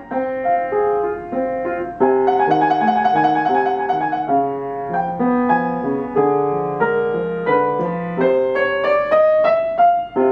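Piano music: a melody of short notes over lower chords, with a quick repeated high figure a few seconds in and a pitch slide upward near the end.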